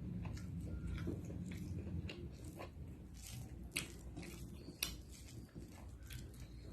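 Close-miked eating: a person biting and chewing food with wet mouth and lip smacks, scattered soft clicks and two sharper ones near the middle.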